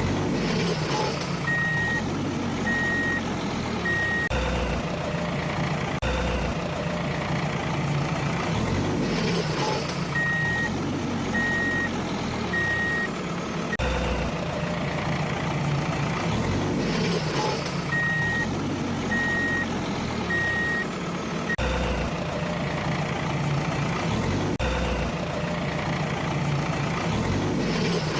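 Truck engine running with a reversing alarm beeping, a run of four high beeps about a second apart, the pattern repeating about every eight seconds like a looped sound effect.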